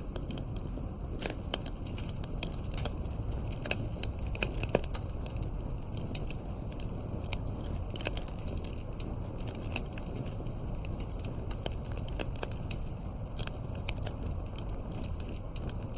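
Campfire burning: irregular sharp crackles and pops of wood over a steady low rumble of the flames.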